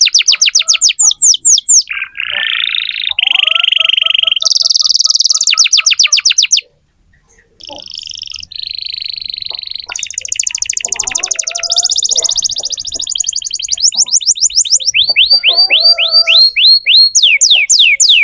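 Domestic canary singing a loud, long song of rapid trills and buzzy rolls, with a short break about seven seconds in. Later the trill slows into a run of distinct downward-sliding notes, then speeds up again near the end.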